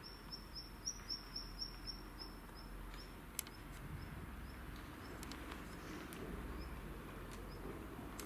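A small bird chirping over and over: a quick run of short, high chirps, about four a second, that then slows and fades. Underneath are the soft thuds of a horse's hooves in arena sand, with one sharp click a few seconds in.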